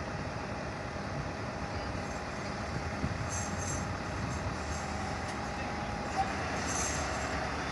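Steady running noise of a large emergency vehicle's engine and machinery, an even rumble without distinct events.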